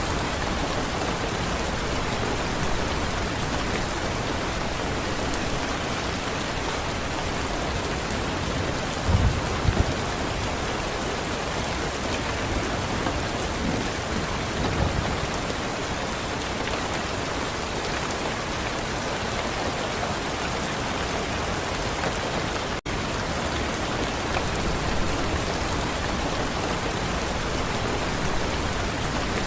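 Steady heavy rain with a couple of brief low thunder rumbles, about nine and fifteen seconds in, and a momentary dropout in the sound a little past two-thirds of the way through.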